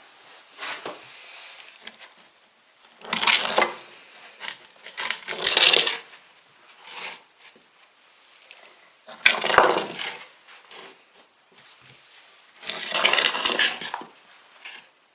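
Hard objects being scraped and handled in four separate bursts, each about half a second to a second long, with light knocks and clicks between them.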